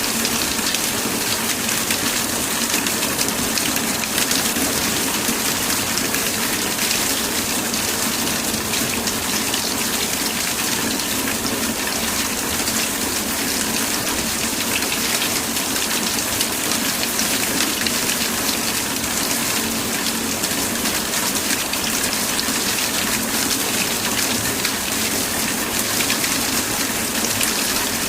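Steady heavy rain: an even hiss with dense pattering drops, unchanging throughout.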